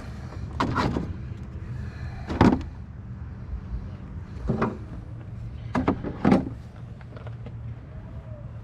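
A series of about five sharp clunks and knocks, spaced a second or two apart, over a steady low hum.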